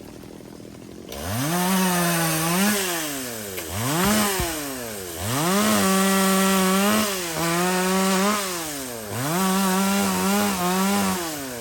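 Two-stroke chainsaw revving up from idle in repeated full-throttle bursts, each held a second or two at a high steady pitch before dropping back, as the chain cuts into wood.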